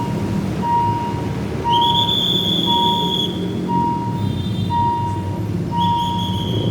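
Level-crossing warning alarm beeping about once a second over the rumble of a passing diesel-hauled train, with a high, steady squeal twice: about two seconds in and again near the end.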